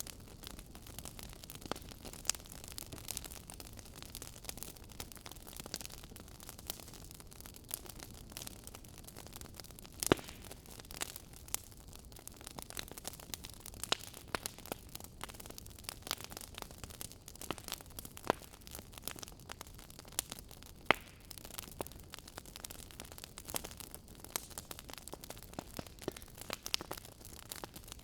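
Wood fire crackling: irregular sharp pops and snaps, a few of them louder, over a steady low hiss.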